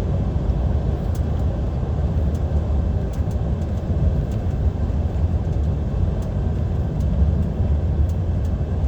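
Steady low rumble inside the cab of a DAF XF 530 lorry cruising at motorway speed: its 12.9-litre six-cylinder diesel engine together with tyre and road noise.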